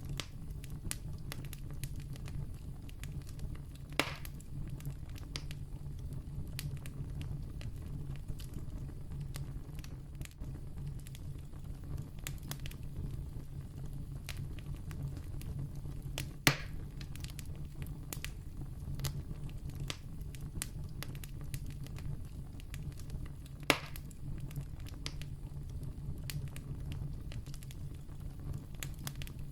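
Wood campfire burning with a steady low rumble and constant small crackles, and three louder sharp pops spread through.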